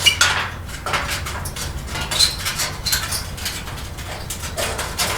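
Irregular metallic clicks, clinks and scrapes, with a couple of short squeaks, as hardware is worked loose on a van's grille.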